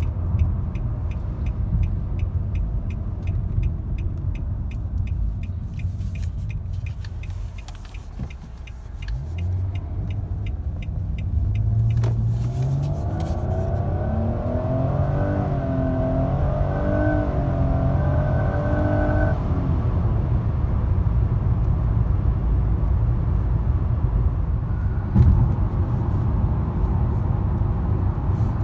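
2020 Nissan Maxima's 3.5-litre V6 heard from inside the cabin, under steady road and tyre rumble with fast, even ticking for the first few seconds. About ten seconds in, the engine rises in pitch under acceleration for several seconds, then settles back into a steady highway cruise.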